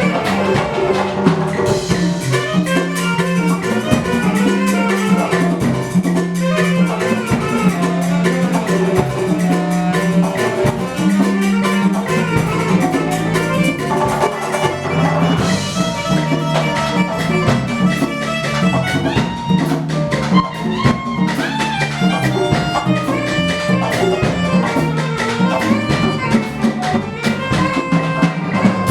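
Live percussion ensemble music in the Afro-Cuban style: drums keep a continuous rhythm under pitched melodic notes and a low bass line.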